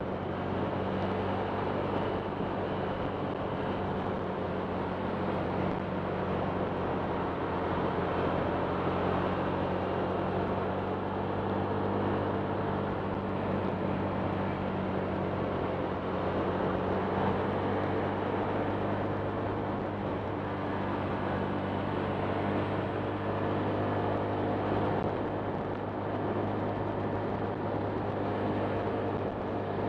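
Honda Click 125 scooter's single-cylinder engine running at a steady speed, with a steady rush of noise over it.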